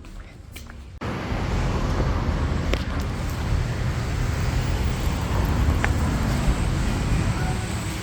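Road traffic noise, a steady wash with a low rumble, starting suddenly about a second in, with a few faint clicks.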